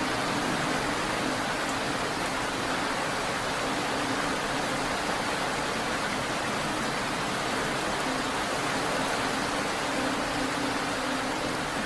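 Steady rain falling: an even, unbroken hiss with a faint low hum beneath it.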